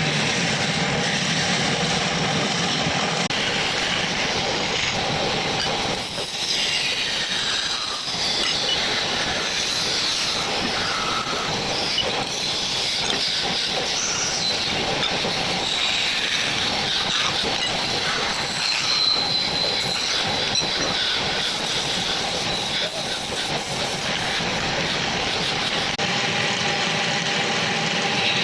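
Power tool cutting into wood while shaping a wooden bowl, a steady scraping and squealing noise with a thin whine running through it.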